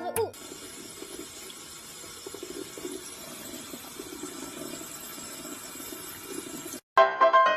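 Water running steadily for about six seconds, then cutting off abruptly. Music begins near the end.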